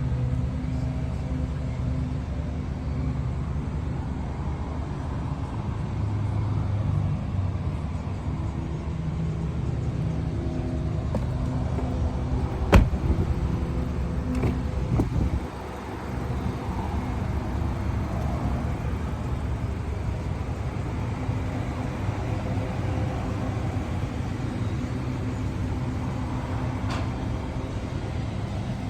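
Mazda CX-5 running: a steady low engine hum with road or cabin noise, and a single sharp click about 13 seconds in.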